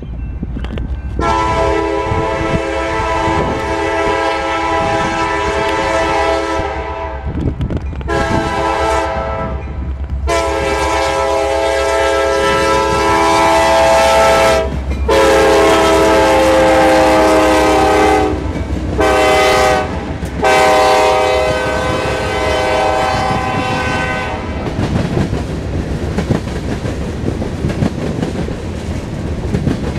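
Diesel freight locomotive's air horn sounding a chord of several notes in a series of blasts, mostly long with a shorter one near the end, as it approaches and crosses a road grade crossing, loudest as it passes. The horn stops a little past the middle, and the wheels of the freight cars rumble and click over the rails as they roll by.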